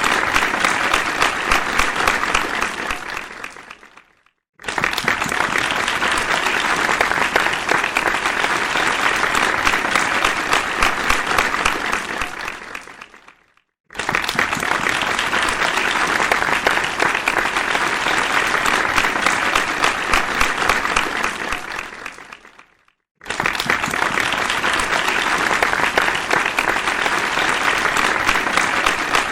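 Crowd applause, a dense round of clapping that fades away, stops for about half a second, then starts again at full strength. This happens three times, about every nine seconds.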